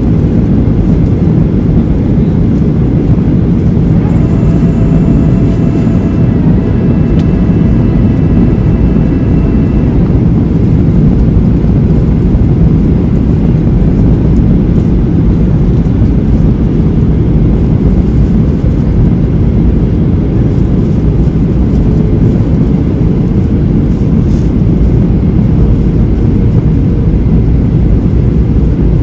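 Steady low roar inside a Boeing 737-800's cabin in flight, its CFM56 engines and the airflow over the fuselage running evenly on the descent. A faint higher steady whine joins about four seconds in and lasts about six seconds.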